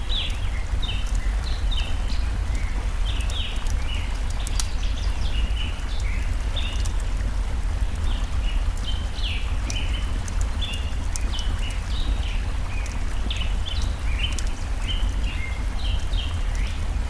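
Nature soundscape: a steady low rush of flowing stream water under dense, continuous short bird chirps, with scattered sharp crackles of a burning wood fire.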